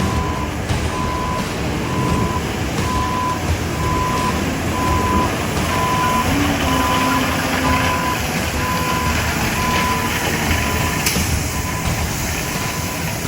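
A dump truck reversing: its backup alarm beeps steadily, about once every three-quarters of a second, over the low rumble of the diesel engine. The beeping fades out near the end.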